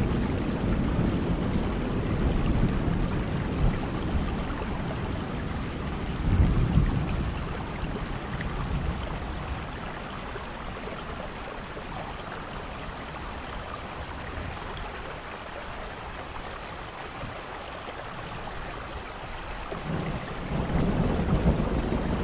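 Steady rain falling, with low thunder rumbling at the start, again about six seconds in, and building again near the end.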